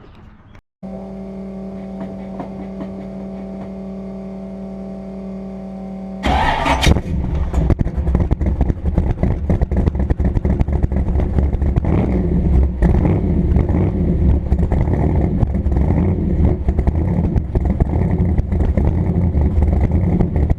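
Vehicle engine running with a steady droning hum, then, after a cut about six seconds in, a much louder rough engine and road rumble that runs on unevenly.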